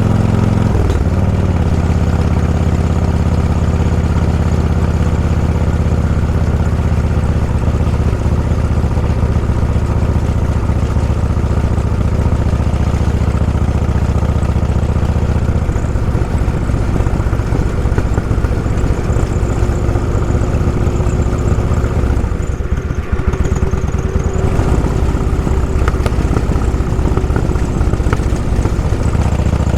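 Motorcycle engine running steadily at an even pitch, with a brief shift in pitch about a second in and a short drop in level about three quarters of the way through.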